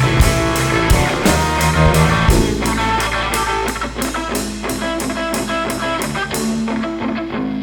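Rock band playing an instrumental passage: guitar notes over a steady bass, with a cymbal struck about three times a second. Near the end the cymbal stops, leaving guitar and bass.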